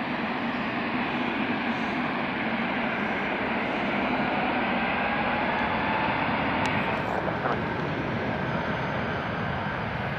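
Jet airliner engines running: a steady rush with a faint whine that slowly shifts in pitch.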